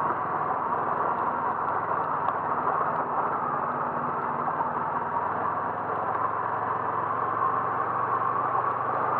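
Steady running noise of a car being driven, with a constant engine hum under road noise and no change in speed.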